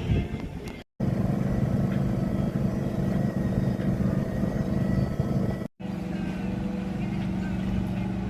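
Steady low motor hum, like an engine or generator running at constant speed, cut off abruptly for a moment twice: about a second in and again near the six-second mark.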